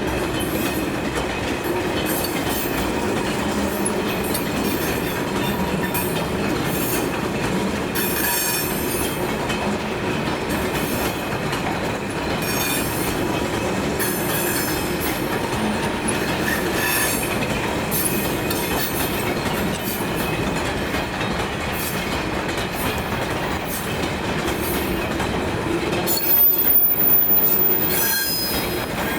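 A train rolling past on the rails: a continuous rumble of railway wagons with thin wheel-squeal tones over it, growing a little louder near the end.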